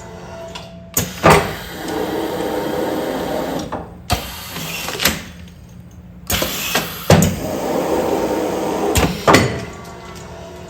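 Automatic food-container sealing machine cycling twice. Each cycle is a sharp knock, a steady mechanical run lasting about a second and a half, and another knock.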